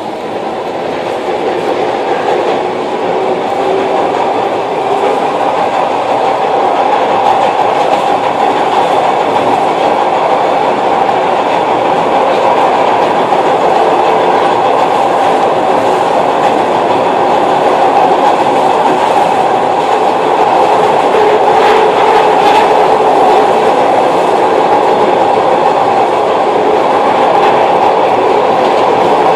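Glasgow Subway train running on its tracks: a loud, steady rumble and rattle of the car, growing louder over the first few seconds and then holding.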